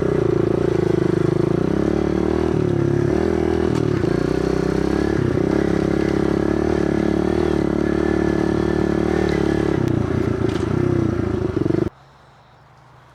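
Kawasaki KLX110 pit bike's small single-cylinder four-stroke engine running hard at high revs, the pitch held steady with brief dips around three to five seconds in. The engine sound stops abruptly near the end, leaving a faint low hum.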